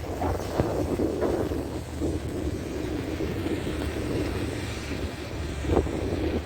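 Wind buffeting the microphone in irregular gusts, with a low rumble underneath.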